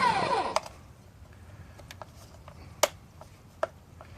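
Vax P89P2P pressure washer's electric motor winding down, its whine falling in pitch and dying away about half a second in, followed by a few sharp clicks, typical of the trigger gun's safety lock being worked.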